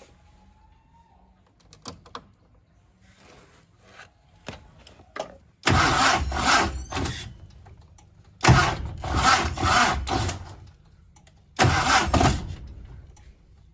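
The restored Hyundai car's engine starting up in three loud bursts a few seconds apart. Each burst comes in suddenly and dies away over about two seconds, and a few faint clicks come before the first.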